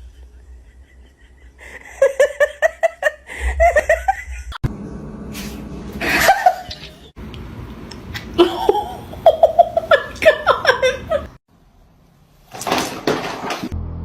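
A person laughing hard in two long fits of quick, repeated 'ha' pulses, with short loud noisy bursts between them.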